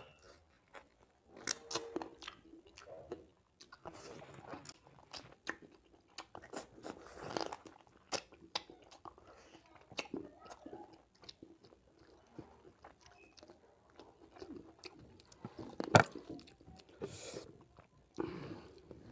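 Close-miked chewing and biting on a piece of pork curry, with irregular crunches and wet mouth smacks and one sharp, loud click about sixteen seconds in. Near the end a hand squishes and mixes rice on the plate.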